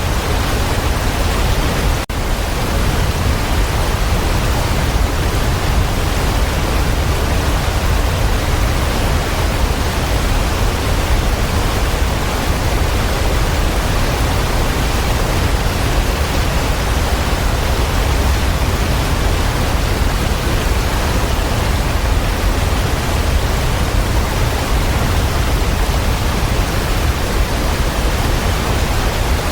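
Waterfall rushing steadily, a dense even roar of falling water. About two seconds in, the sound dips for a split second.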